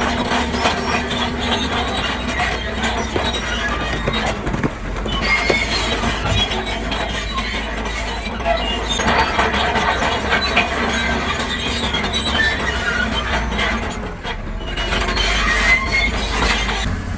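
Heavy earthmoving machinery working: a steady low engine rumble under continual squealing and clanking metal, with a short lull about fourteen seconds in.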